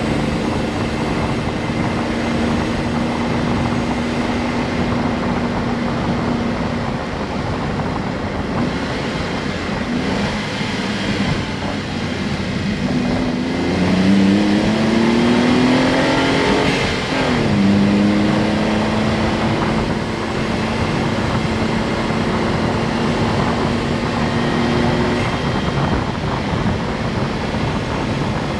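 Honda S660's mid-mounted 658 cc turbocharged three-cylinder engine heard from behind the cabin while driving: a steady drone, then the engine revs climb for several seconds around the middle before the pitch drops sharply at a gear change, settling back into a steady cruise.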